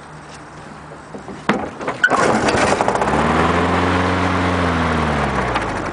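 A cold 1993 Briggs & Stratton 3.5 hp push-mower engine, pull-started: it catches about two seconds in and runs for a few seconds, its speed rising briefly and then sagging until it dies out near the end. The owner blames old gas for the stalling.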